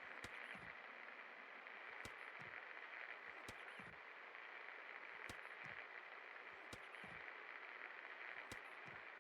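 56-inch Pak antique ceiling fan running with a faint steady whir. A sharp click sounds about every one and a half seconds, each followed by a soft low knock, a rhythm that repeats evenly with the fan's turning.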